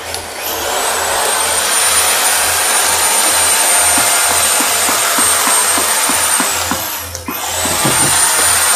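A high-speed motor-driven tool starts up and runs with a loud hiss and a thin, high whine. About seven seconds in it winds down briefly, then speeds up again.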